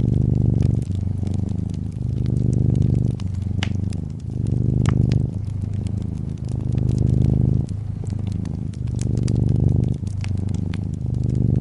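A domestic cat purring, a low buzzing purr that swells and eases every second or two, with a wood fire crackling in scattered sharp pops over it.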